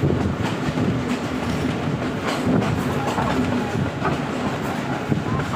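Train running along the track: a steady rumble of wheels on rails, with a few clicks from the rail joints.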